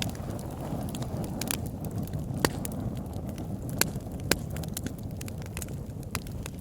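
Wood fire burning in a fireplace: a steady low rumble of flames with scattered sharp crackles and pops, three of them louder near the middle.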